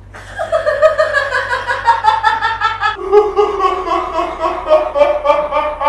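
High-pitched laughter in rapid, even bursts, in two long runs; the second run starts about halfway through with a shift in pitch. It is loud and cuts off abruptly just after the end.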